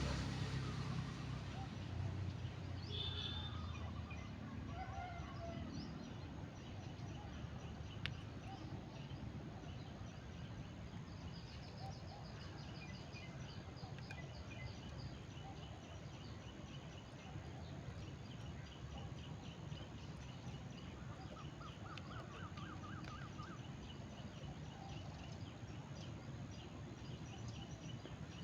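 Open-air riverside ambience with birds chirping and calling now and then, and a brief trill about two-thirds of the way through. A passing motor's low hum fades away in the first few seconds.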